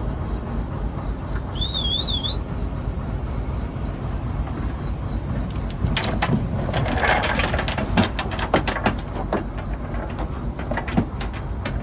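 Fishing trawler's engine running with a steady low rumble, a short warbling whistle about two seconds in, and scattered knocks and clatter from about six seconds on.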